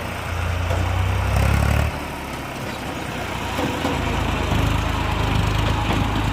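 Tractor diesel engine running, revved up for about a second and a half shortly after the start, dropping back, then revved up again near the middle and held.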